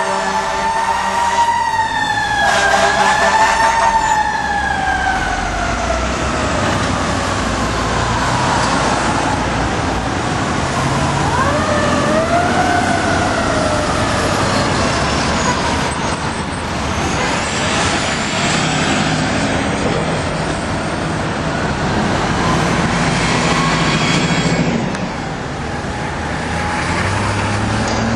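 Fire truck siren on a responding FDNY ladder truck: the wail wavers and then winds slowly down in pitch, rises again briefly, and falls away, over the truck's engine and street traffic noise.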